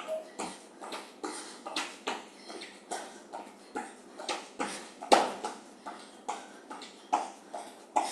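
Rhythmic impacts of jumping jacks, about two a second: running shoes landing on the floor with each jump.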